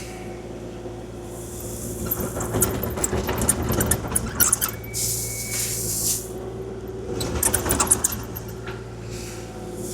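Kubota KX040-4 mini excavator's diesel engine running steadily while its bucket scrapes and drags across gravel in several rough bursts.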